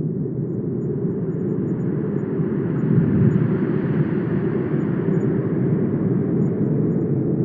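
Wind blowing in a steady low rush, with a gust swelling about halfway through and easing off again.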